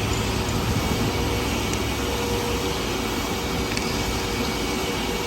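Steady, even drone of car wash machinery, with a faint steady hum running through it.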